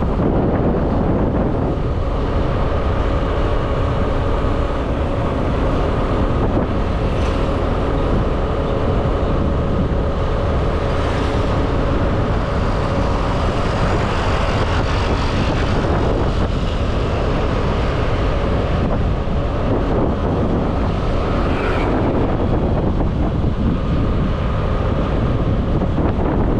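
Motorbike engine running steadily while riding at road speed, with wind noise on the microphone.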